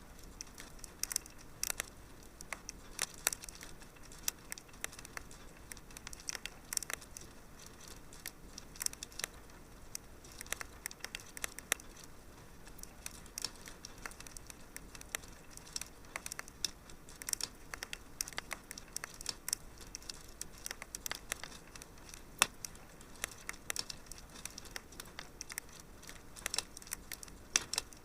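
Wood fire crackling in a fireplace: irregular sharp pops and snaps, several a second, over a soft steady hiss, with a few louder snaps.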